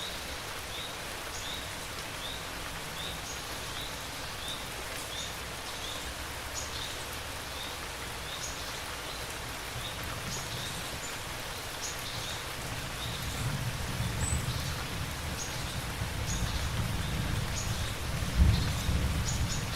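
Steady rain falling, with a low thunder rumble that builds from about halfway through and is loudest near the end. A faint high chirp repeats about once a second.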